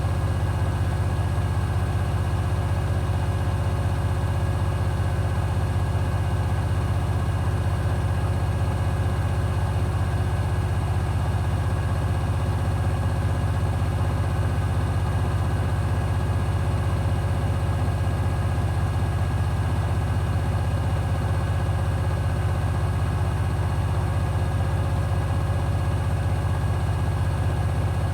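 Hoover HW411AMC washing machine spinning steadily in its final spin cycle: a constant low motor-and-drum hum with no change in speed.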